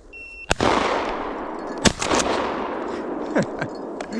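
Shotgun shots at a flushed pheasant: one sharp report about half a second in, followed by a long fading echo, then a second report about 1.4 s later. The first shot, by the hunter's account, was taken too close. A short electronic beep sounds just before the first shot.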